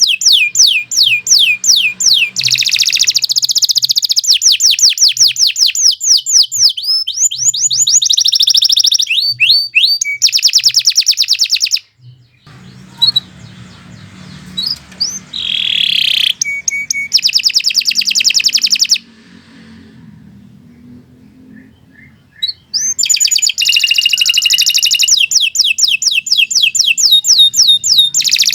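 Domestic canary singing a loud, long song of fast repeated trills, pausing briefly about twelve seconds in and again for a few seconds around twenty seconds in.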